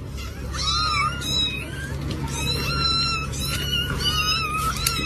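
Cat meowing in several long, drawn-out, high-pitched calls, over a steady low hum. It cuts off abruptly at the end.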